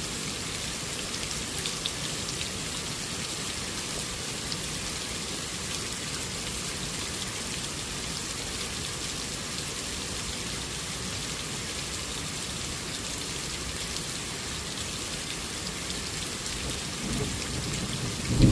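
Steady rain falling, an even hiss of many drops. Near the end a low rumble of thunder begins to build.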